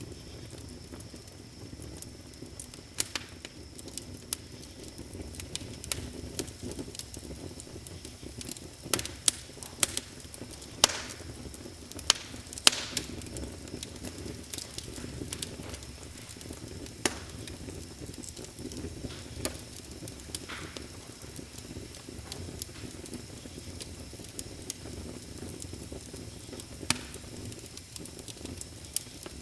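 Wood fire crackling in a fireplace: irregular sharp pops and snaps over a low steady rumble of the flames, with a run of louder pops about a third of the way in.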